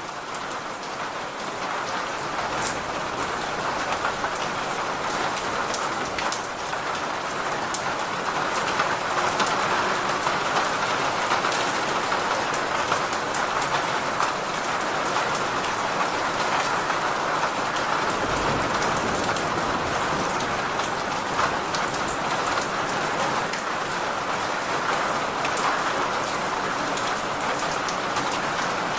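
Steady rain falling on a surface: a dense, even hiss with scattered sharp drop ticks. It swells a little over the first several seconds, then holds steady.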